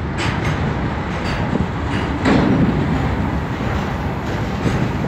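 Train running along the track: a steady rumble of the wheels with irregular sharp clicks as they pass over rail joints and points.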